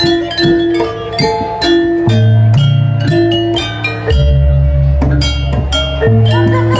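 Jaranan dance music: metal mallet percussion strikes a quick repeating melody of ringing notes over long, deep bass notes.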